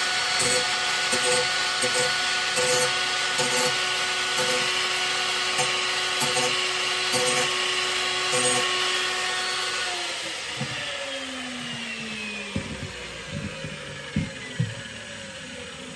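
Electric angle grinder running with a steady whine, its sound pulsing about every half second as it is touched lightly against a steel lawn mower blade. About ten seconds in it is switched off and winds down with a falling whine, followed by a few knocks.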